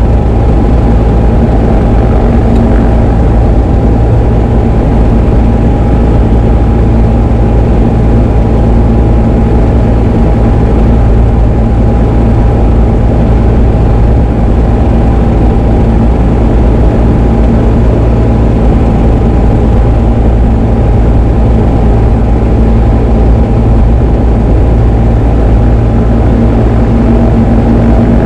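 Diamond DA20 light aircraft's piston engine and propeller running, a loud steady drone with no change in pitch.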